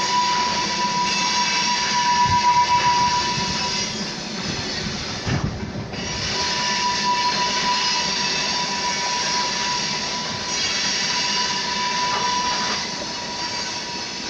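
A vehicle running with a steady, high-pitched squeak over its running noise. The squeak fades out about four seconds in and returns a couple of seconds later.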